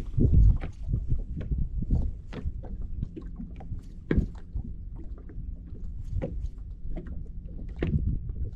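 Low rumble of a fishing boat on the water, with irregular knocks and thuds against the hull.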